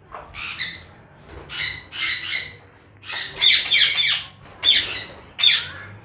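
Caged parrots giving loud, harsh screeching calls in about five bursts, with short quieter gaps between them: the flock's noise, raised by the arrival of new budgies.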